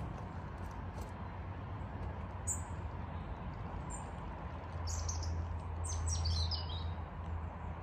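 Small birds chirping: single high chirps, then a quick run of falling chirps near the end. Underneath is a steady low hum that grows louder for a couple of seconds past the middle.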